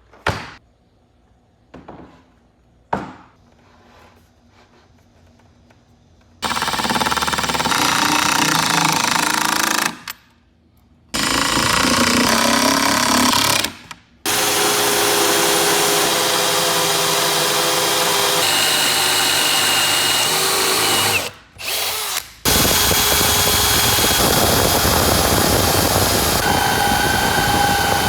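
A few sharp knocks, then a handheld power tool running in long stretches of several seconds, cutting out briefly and starting again a few times.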